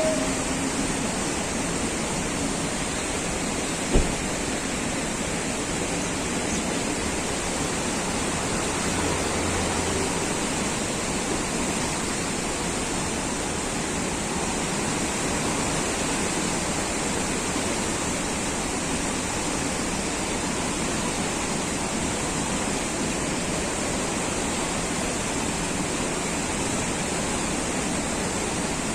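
Steady, even rushing noise, with a single sharp click about four seconds in.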